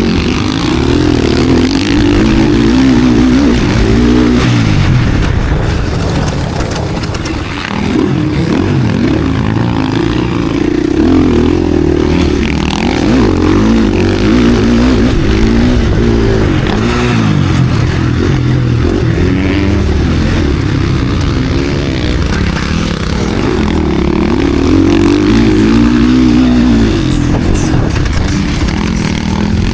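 KTM SX-F Factory Edition's single-cylinder four-stroke motocross engine under racing throttle, revving up and dropping back over and over as the rider shifts and brakes through the track. The throttle closes briefly about seven seconds in before the engine pulls hard again.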